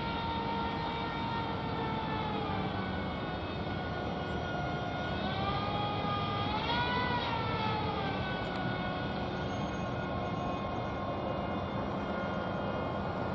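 Jet airliner engines running, a pitched whine over a steady rumble; the whine dips in pitch about two seconds in, then rises and falls again around six to seven seconds.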